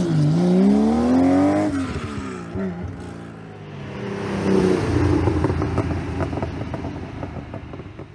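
Air-cooled Porsche engine accelerating: its pitch climbs steadily, drops at a gear change, and climbs again. A second, louder surge comes about four to five seconds in and then fades away.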